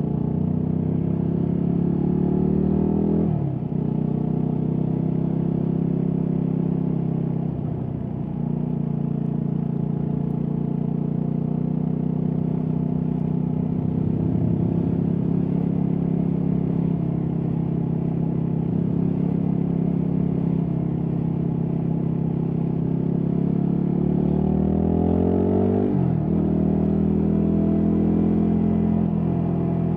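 Stock Yamaha WR250X's single-cylinder four-stroke engine under way, heard from a recorder in the rider's backpack. The revs climb and drop sharply at gear changes about three and a half seconds in and again near the end, with a long steady stretch of cruising in the middle.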